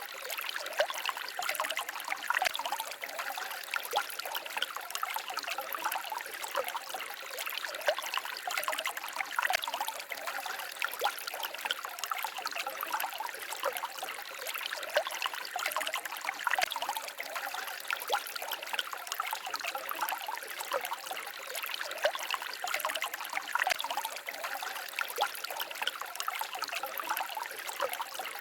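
Shallow forest stream babbling and trickling steadily, with many small splashes.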